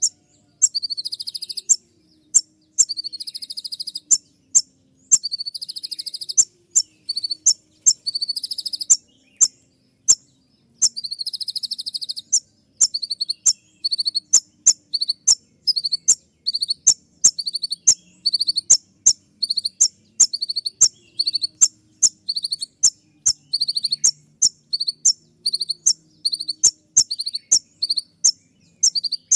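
Kolibri ninja (konin), a sunbird, calling in sharp, piercing 'shot' notes. In the first half these are mixed with buzzy trills of about a second each. Later they come as quick separate notes, about two a second.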